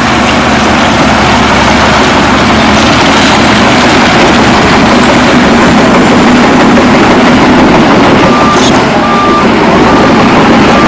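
Heavy diesel earthmoving equipment running steadily under load. From about eight seconds in, a reversing alarm beeps, short high beeps under a second apart.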